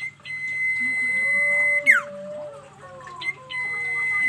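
Sirtu bird calling: a long, steady, high whistled note held for about a second and a half that ends in a quick falling slide, then after a short pause a second long note begins near the end.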